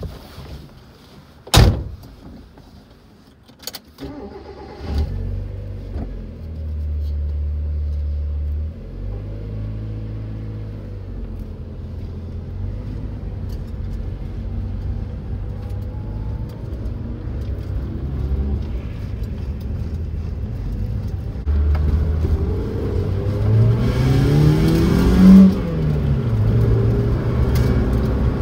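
A car door slams shut, then the 1991 Ford Festiva GT-A's engine starts about five seconds in and idles, heard from inside the cabin. Near the end the engine climbs in pitch as the car accelerates away, then drops back.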